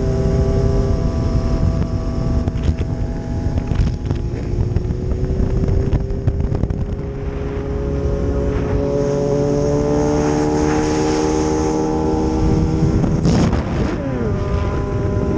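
Racing motorcycle engines running at a steady cruise over a low rumble. The engine pitch climbs slowly through the middle and drops quickly near the end.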